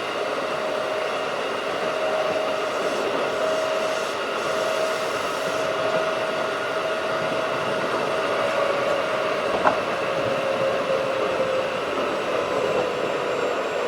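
Keikyu 1500-series field-chopper electric train running at speed: a steady rumble of wheels and air with a whine held level, then dropping slightly in pitch in the second half. A single sharp clack comes about ten seconds in.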